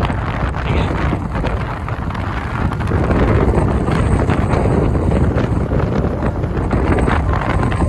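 Wind buffeting the microphone on a moving motorcycle: a loud, steady rushing rumble, heaviest at the low end.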